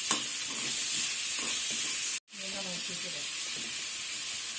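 Chopped onions sizzling in hot oil in a pan as they are stirred and sautéed, with faint scrapes from the stirring. The sound cuts out for a moment about halfway through, then the sizzling carries on.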